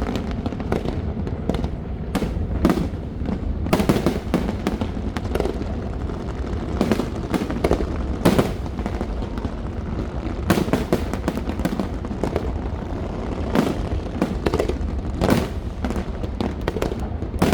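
Aerial fireworks bursting in an irregular run of sharp bangs, a dozen or more, over a steady low rumble.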